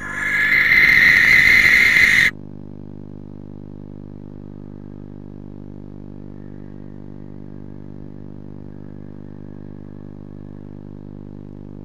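Barn owl giving one long, harsh, hissing screech of about two seconds that cuts off sharply, followed by a steady low hum.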